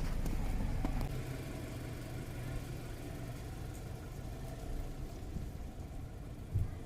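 Car engine idling, a steady low rumble heard from inside the cabin, easing slightly about a second in. A short thump comes near the end.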